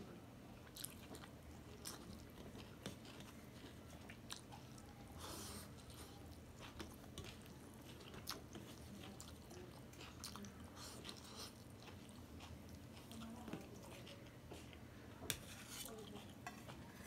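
Faint, close mouth sounds of a person chewing a mouthful of rice and greens, with small wet clicks from fingers working rice on a steel plate. A sharper single click comes near the end.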